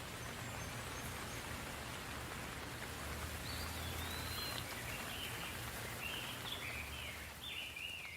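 Soft steady rain falling, with a low rumble underneath. From about halfway through, a bird calls repeatedly in short high chirps.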